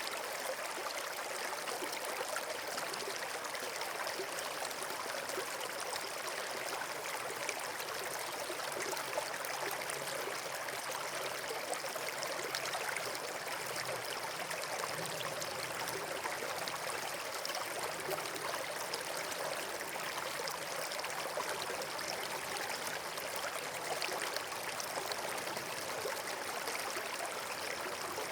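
Running water rushing and trickling steadily, like a forest stream or small waterfall.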